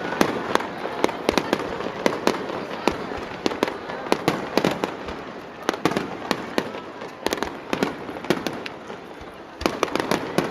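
Aerial fireworks going off in rapid, irregular succession, a steady stream of sharp bangs and cracks. They thin out for a moment about eight seconds in, then come thick again just before the end.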